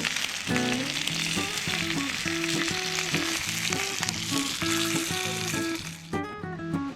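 Chashu pork sizzling and spitting as it cooks in its tare sauce, a dense steady hiss that dies away about six seconds in. Plucked-guitar background music plays underneath.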